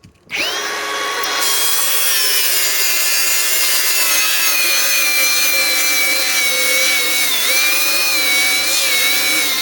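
Milwaukee M18 Fuel 3672-20 cordless angle grinder starting up and grinding steel with a 36-grit disc. Its whine sinks slowly as it is pressed hard against the metal, with small dips under load, and it keeps running without stalling. The pitch climbs back right at the end as the load comes off.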